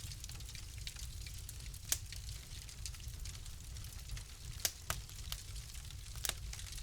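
Fire crackling in a fireplace: scattered sharp pops over a soft steady hiss and a low rumble. The loudest pop comes about two seconds in, and a few more follow in the last third.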